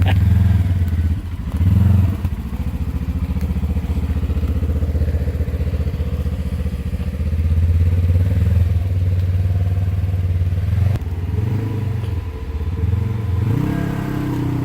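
Polaris RZR side-by-side engine running steadily at low revs, then blipped up and down twice and brought to a higher, held rev near the end.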